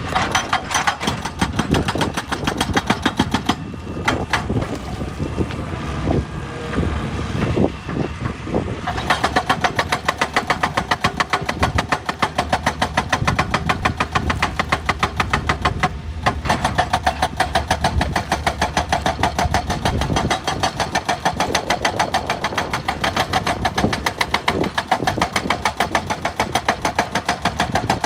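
Excavator running with a rapid, regular knocking that sounds throughout, uneven for the first several seconds and then settling into a steady, even beat about nine seconds in.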